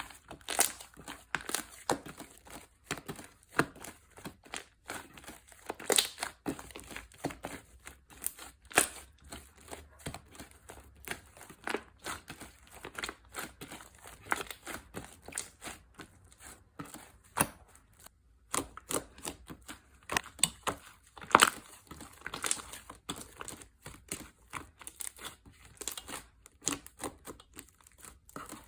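Slime being squished and stretched by hand: a dense, irregular run of sticky clicks and crackles, with a brief pause about two-thirds of the way through.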